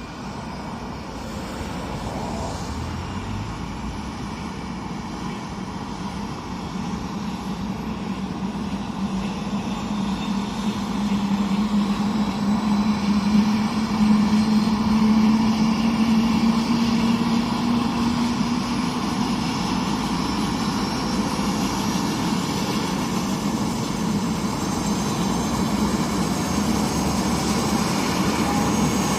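Helicopter's turbine engine and rotor running for takeoff, with a steady low hum and a thin high turbine whine. It grows louder over the first dozen or so seconds, then holds steady.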